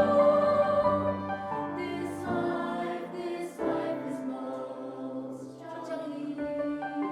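High school choir singing held chords in parts, growing softer after the first second or so, with sung 's' consonants hissing now and then.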